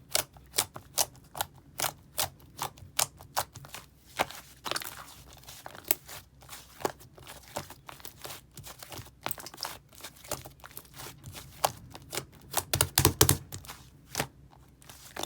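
Hands pressing and squeezing a thick clay slime, giving a run of sharp clicks and pops, two to four a second, with a denser burst of them about thirteen seconds in.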